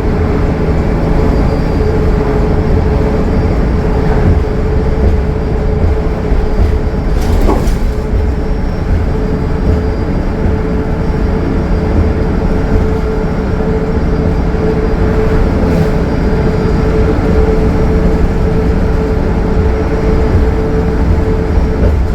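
Cummins ISL9 diesel-powered 2015 Gillig Low Floor transit bus cruising at highway speed: a steady engine drone and road rumble under a constant whine, with a brief knock about seven and a half seconds in.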